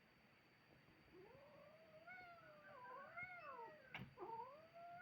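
Cat's long, drawn-out yowl during a fight standoff between a small kitten and a bigger cat, the warning caterwaul cats make when squaring off. It starts about a second in and slowly rises and falls in pitch, with a single sharp click near the end.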